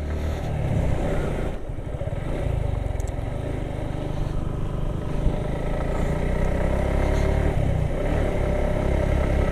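Suzuki Gixxer SF single-cylinder motorcycle engine pulling hard under heavy load up a very steep climb, held at high throttle with a passenger aboard.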